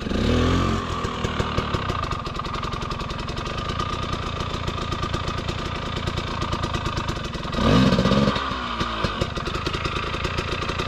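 Dirt bike engine running at low revs under light throttle, revved briefly right at the start and again, louder, about eight seconds in.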